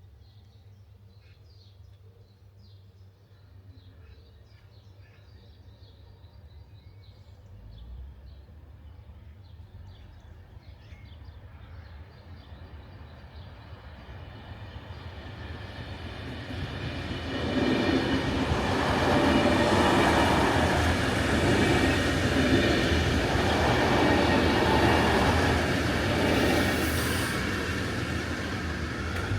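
A regional passenger train approaching over a level crossing and passing close by. It grows louder through the first half and is loudest, with wheel and rail noise, for most of the last third. Birds chirp faintly at the start.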